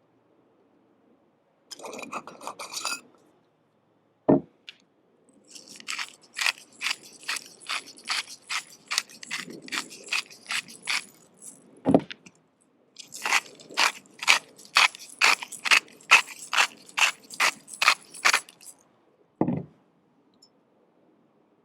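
Knife cutting on a cutting board in two steady runs of strokes, about two or three a second, with a short rattle near the start and single dull knocks between the runs.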